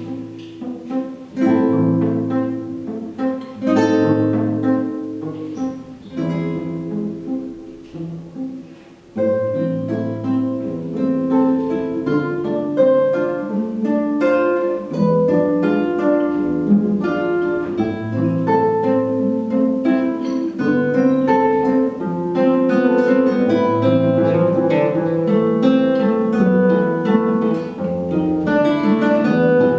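Two acoustic guitars playing a duet, plucked melody over chords. It starts with spaced chords and pauses, then from about nine seconds in the playing becomes louder and continuous.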